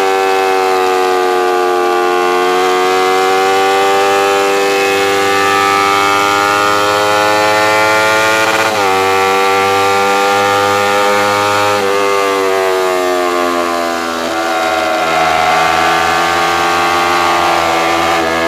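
Kawasaki Ninja 250R's parallel-twin engine revving hard under acceleration. Its pitch climbs, drops sharply at an upshift about nine seconds in and again near twelve seconds, then falls away as the bike slows for the next corner. Wind rush underneath.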